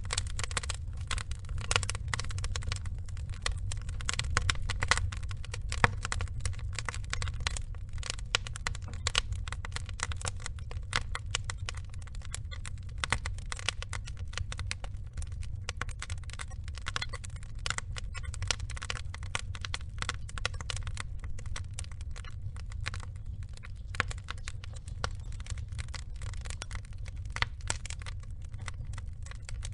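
Wood fire burning, with dense irregular crackling and snapping pops over a steady low rumble of flame.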